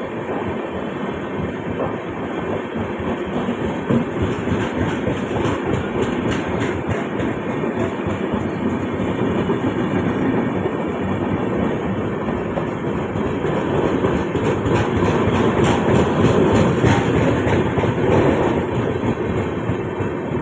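A train running slowly past on the track, a steady rumble of wheels on rail. Two runs of rapid clicks from the wheels crossing rail joints come about a fifth of the way in and again near the end, where it is loudest.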